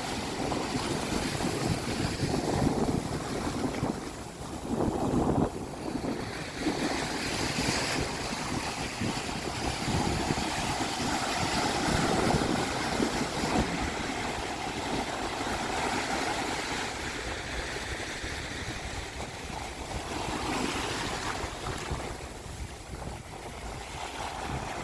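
Pacific Ocean surf washing onto a sandy beach, the rush of the waves swelling and easing, with wind buffeting the microphone. The sound drops briefly about four seconds in and surges again a moment later.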